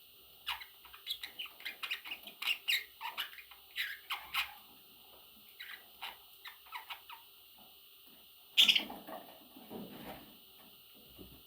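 Parrot chicks cheeping and squeaking in quick, irregular runs of short high calls, with one louder squawk about eight and a half seconds in.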